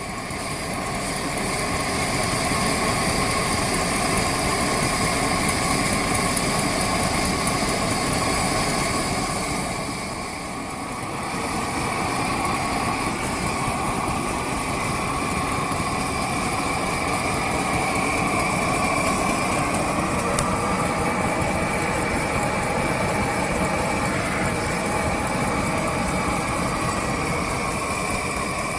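Vintage engines running steadily, with a short dip in level about ten seconds in.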